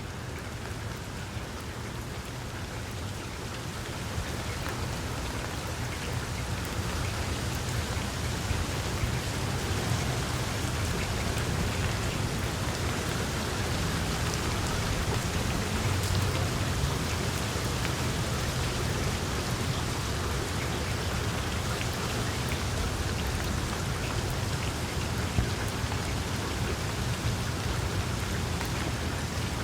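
Wood fire crackling in a fireplace: a dense, steady patter of small pops and crackles over a low rumble, growing a little louder over the first several seconds.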